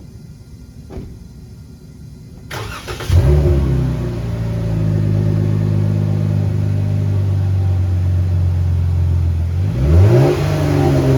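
Ram 1500's 3.6 L Pentastar V6 cranks and starts about two and a half seconds in, flaring up briefly and then settling into a steady, low idle through a factory Hemi dual exhaust with its resonators and mufflers. Near the end it is revved once, briefly, and drops back toward idle.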